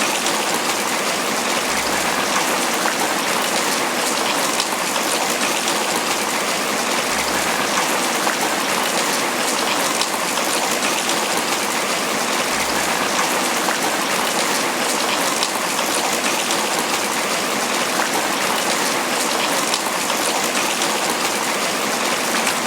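Tropical rain falling steadily on banana leaves, a dense, even patter with no let-up.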